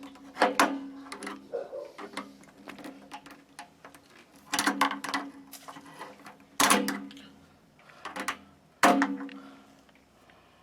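Handling clanks and clicks at an electric water heater's thermostat: about four sharp metal knocks, each ringing briefly, with lighter clicks between as wires and parts are moved against the sheet-metal housing.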